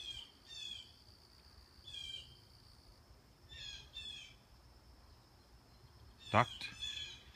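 Small backyard songbirds chirping in short clusters of quick high notes every second or two, over a steady high-pitched hum.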